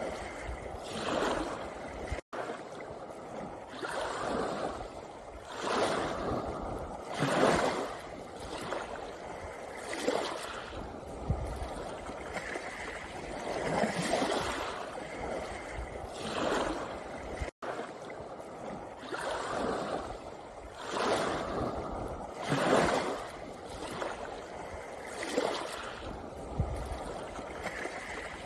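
Small sea waves washing in and out over a pebble beach, each wash swelling and fading every couple of seconds. Twice the sound cuts out for an instant.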